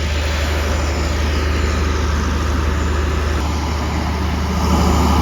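A large engine running steadily with a low hum, over a haze of outdoor noise. It grows a little louder near the end.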